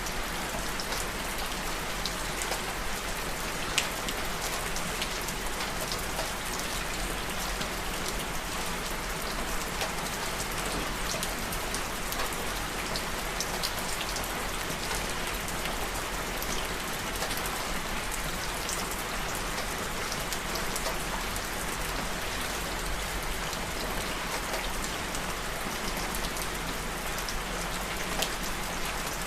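Steady rain falling, an even hiss with scattered individual drops ticking, one sharper tick about four seconds in.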